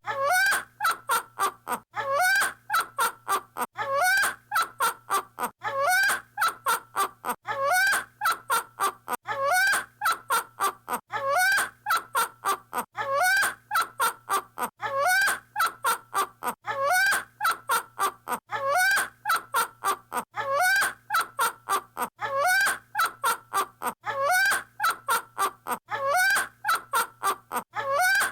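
A bird's laugh-like cackling call: a quick run of sharp staccato notes, repeated over and over in a loop about every two seconds.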